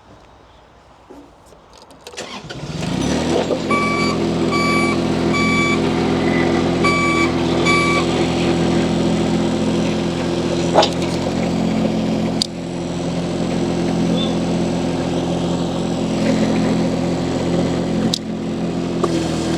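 Mini skid steer loader's engine starting about two seconds in and then running steadily, with six short evenly spaced electronic beeps from the machine's beeper soon after it starts, and a few sharp clicks later on.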